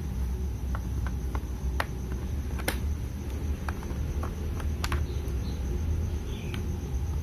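Small scattered clicks and taps of a SanDisk USB flash drive being handled and pushed into a laptop's USB port, the sharpest about two and a half and five seconds in, over a low steady hum.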